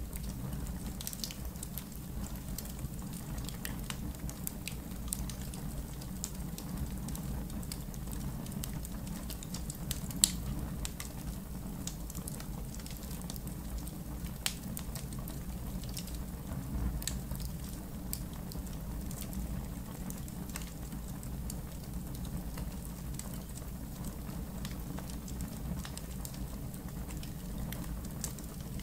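Campfire in a fire pit crackling: scattered sharp pops and ticks over a steady low rumble, with one louder pop about ten seconds in.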